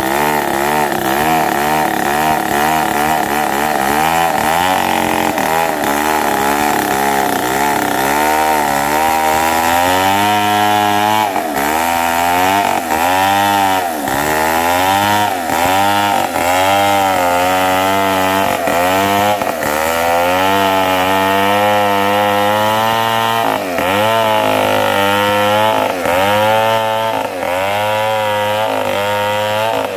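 Chainsaw cutting mahogany wood, running continuously under load, its engine pitch repeatedly dipping and climbing again as the chain bites, in quicker ripples at first and about once a second from about a third of the way in.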